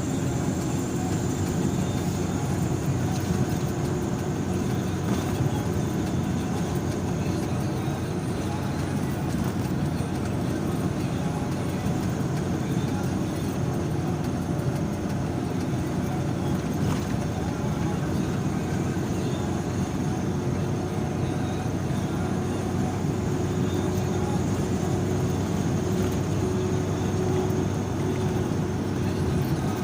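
A car driving along a road: steady engine and tyre noise with no change in speed.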